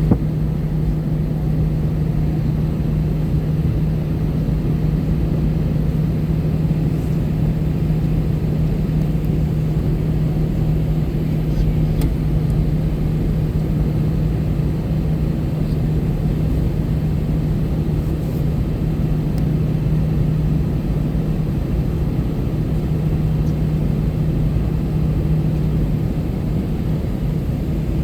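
Steady airliner cabin noise inside an Airbus A321-200: a constant low hum over an even rumble of engine and airflow noise.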